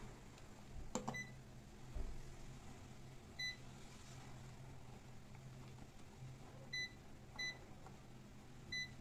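Short electronic beeps, about five of them at irregular intervals, over a steady low hum, with a single sharp click about a second in.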